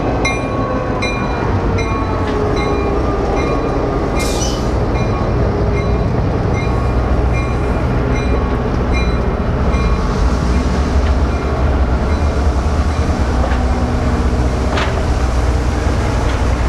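A diesel-hauled train rolling past with a steady low rumble, and a grade-crossing bell dinging about twice a second through the first half. There is a brief high hiss about four seconds in.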